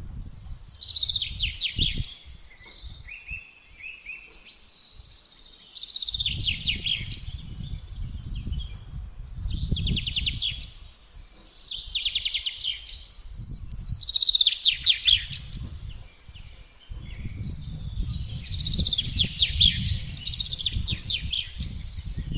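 A songbird singing short, rapid trilled phrases, about six of them a few seconds apart, over gusting wind that rumbles low, dying away and swelling again.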